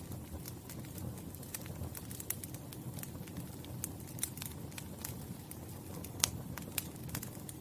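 Wood fire crackling, with irregular sharp pops over a low steady rumble; the loudest pop comes about six seconds in.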